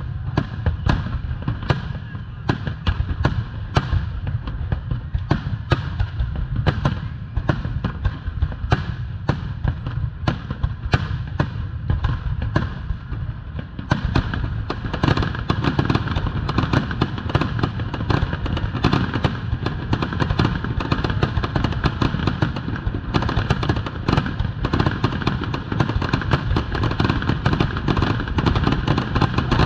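Fireworks finale: aerial shells bursting in rapid succession, a continuous barrage of bangs several a second over a low rumble, getting denser and louder about halfway through.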